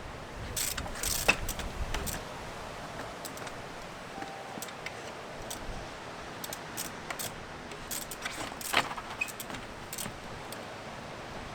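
Trials bicycle clicking and clattering as it is ridden over rock: irregular sharp metallic clicks and knocks over a steady hiss, with the loudest ones about a second in and near nine seconds in.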